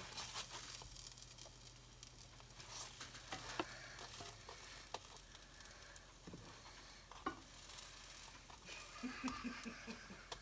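Cereal-crusted French toast frying quietly in butter in a skillet, a soft steady sizzle, with a few light clicks and scrapes of a plastic spatula against the pan.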